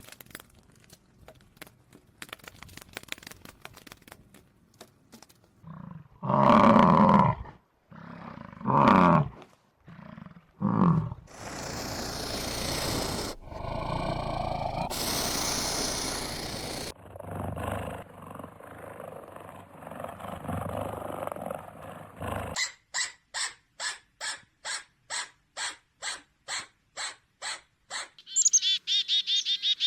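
A string of different animal calls. Three loud roars come first, followed by a long rasping noise, then a call repeated regularly about twice a second, and high chirping near the end.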